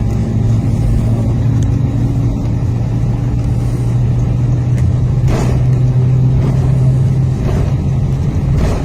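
Cabin of an Airbus A320 with its IAE V2500 jet engines running: a loud steady rumble with a low drone, plus two light knocks, one about halfway and one near the end.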